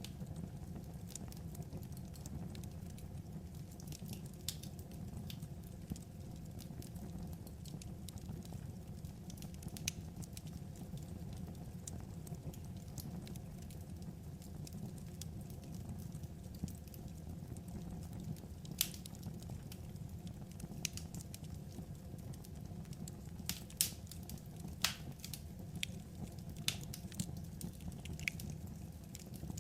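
Wood fire crackling: a steady low rumble with scattered sharp pops and snaps, a few louder ones past the middle.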